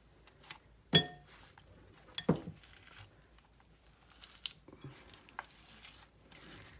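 Kitchenware clinking and knocking: a sharp ringing clink about a second in, a duller knock just after two seconds, then a few lighter taps.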